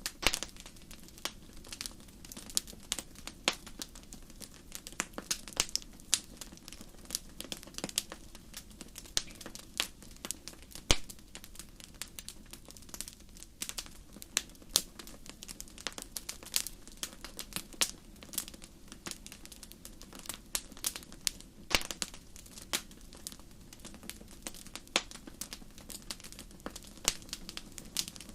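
Wood fire in a fireplace crackling: irregular sharp pops and snaps, several a second, over a faint steady low background, with one louder pop about eleven seconds in.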